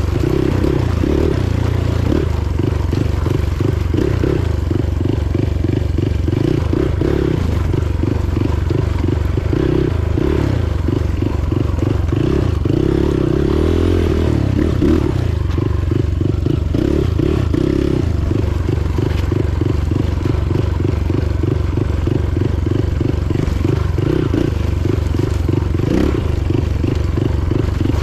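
Motorcycle engine running steadily under way, with a rapid, even firing pulse.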